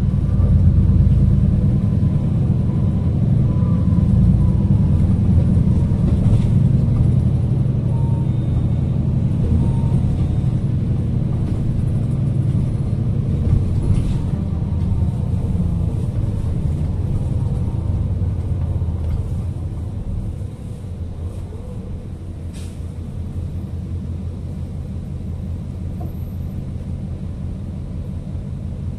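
City bus running along the road, heard from inside the cabin: a steady low engine and road rumble that eases to a lower level about two-thirds of the way through.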